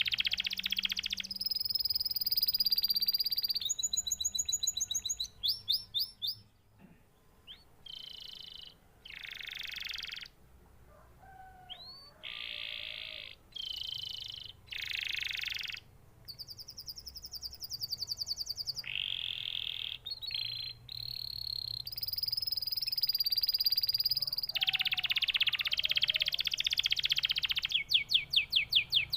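Canary singing a long song of rapid trills and buzzy rolls, phrase after phrase with short pauses; the song goes quieter and choppier for a stretch in the middle, then picks up again, ending in a fast clicking trill.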